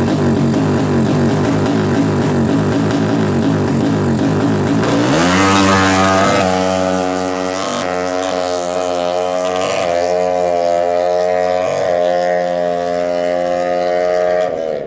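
Kawasaki KLX drag bike's 180cc single-cylinder engine revving. It runs rough and uneven at first. About five seconds in it climbs and is held at high revs with a few brief dips, then drops off abruptly near the end.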